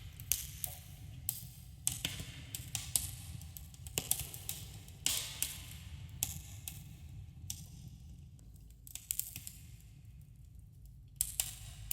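Wood campfire crackling and popping at irregular intervals over a low, steady rumble. The pops thin out for a few seconds past the middle, then come thick again near the end.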